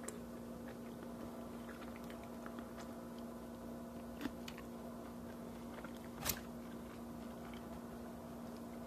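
Quiet chewing and mouth sounds with scattered soft clicks, a sharper click about four seconds in and a louder knock about six seconds in, over a steady low hum.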